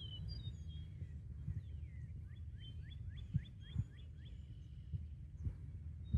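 Birds chirping, with a quick run of about seven short downward-slurred chirps in the middle and a few higher whistles, over a steady low rumble on the phone's microphone.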